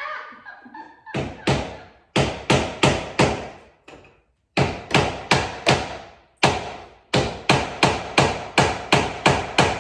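A hammer striking hard and repeatedly, about twenty sharp blows in four quick runs of about three a second, each blow ringing briefly.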